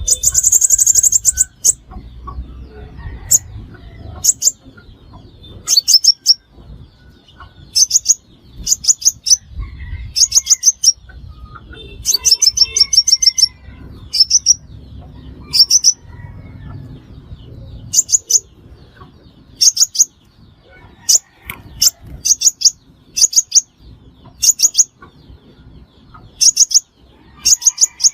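Sunbird calling with loud, high, sharp chirps in quick clusters of two to four, repeating every second or two: a call recording used as a lure for trapping sunbirds.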